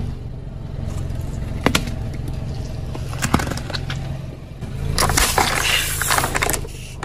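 Car engine running with a steady low hum, broken by a couple of sharp cracks and, about five seconds in, a louder rough crunching stretch as objects are crushed under the tyres.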